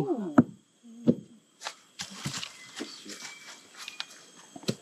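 Hollow knocks on a rainforest tree's buttress root, struck by hand to make the signalling sound used by hunters in the jungle. It is a few sharp, irregularly spaced thuds, with a brief 'ooh' at the start.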